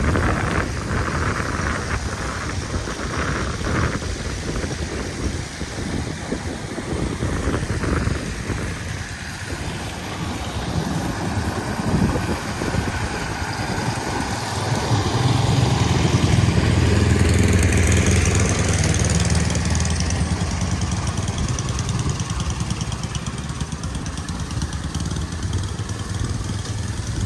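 City street traffic: vehicle engines and road noise run steadily, and a heavy vehicle's low rumble swells and fades a little past halfway through.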